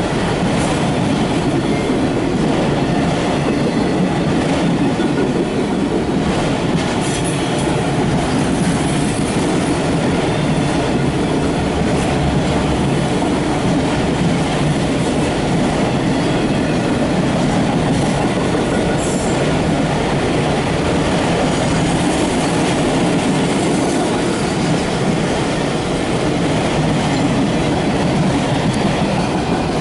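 Empty autorack freight cars rolling past on steel rails: a steady, loud rumble of wheels with scattered clicks.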